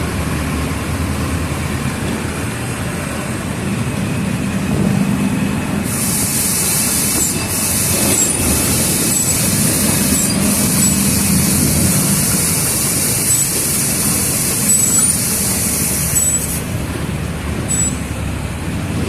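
Mercedes-Benz OF 1722M city bus diesel engine running under way, a steady low hum. From about six seconds in to near the end a loud high hiss with short faint squeaks rides over it.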